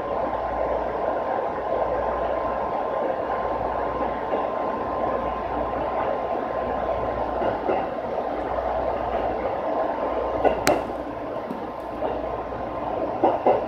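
Electric local train running, heard from the driver's cab: a steady rumbling run with a constant high hum, and a few sharp clicks about ten seconds in and near the end.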